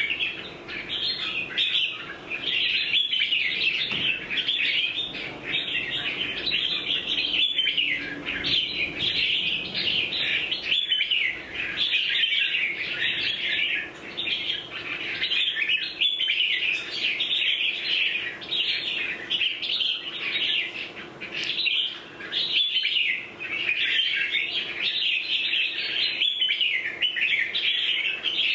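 A wild-caught red-whiskered bulbul singing and chattering almost without pause, a fast run of sweeping, warbling phrases with only brief breaks.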